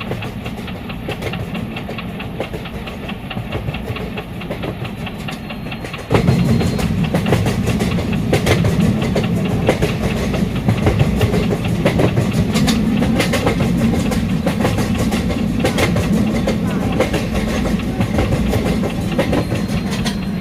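Train running on the track: a steady rumble with repeated clicks and clacks of wheels over rail joints, becoming abruptly louder about six seconds in.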